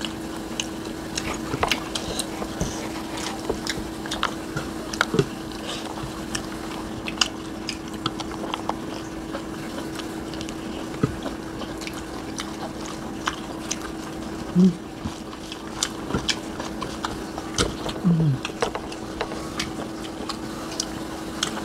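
Close-up eating sounds: chewing and smacking of mouths with many small sharp clicks as two people eat rice, fish and vegetables by hand. A steady hum runs underneath, and there is a brief voiced murmur twice in the second half.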